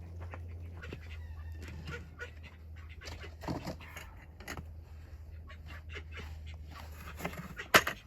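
Hens clucking softly, with scattered clicks and rustles over a steady low hum. A single sharp knock near the end is the loudest sound.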